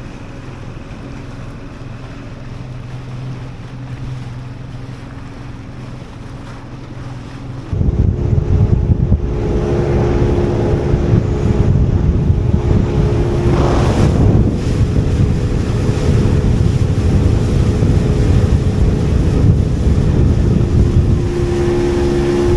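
Motorboat engine running with water noise, then about eight seconds in a sudden jump to much louder running at speed, with heavy wind buffeting the microphone.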